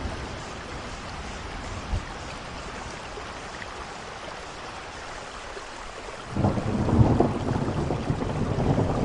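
Steady rainfall, with a roll of thunder breaking in about six seconds in; it rises suddenly in the low range, is loudest about a second later and keeps rumbling on.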